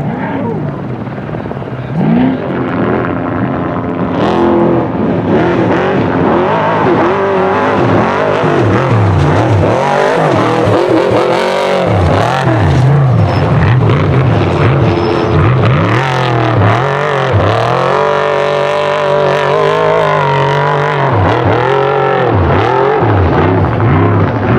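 Off-road race truck's engine running hard, its revs climbing and dropping over and over as the throttle is worked through rough terrain.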